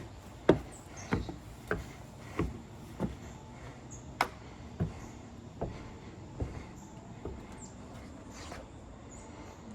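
Footsteps on the wooden deck and stairs, a step about every two-thirds of a second, growing fainter after about six seconds.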